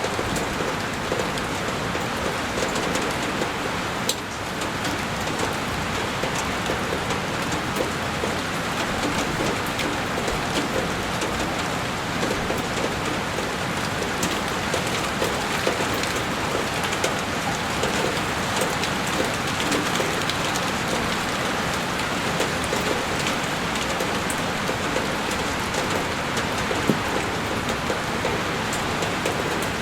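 Heavy rain falling steadily and pattering against a window pane, with many small sharp drop hits on the glass.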